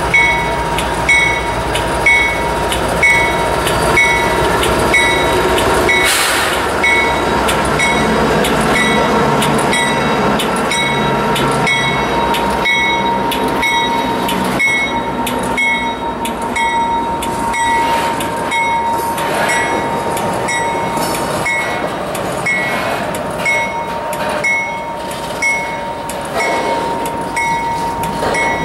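Freight train passing close by. A GE diesel locomotive rumbles past in the first few seconds, then a string of empty intermodal well cars rolls by with a steady clickety-clack of wheels over rail joints.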